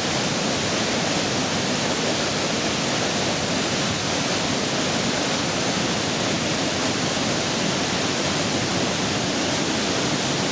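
The Pailón del Diablo waterfall, about 80 metres high, crashing down into a narrow gorge, heard at close range as a dense, steady rush of falling water with no let-up.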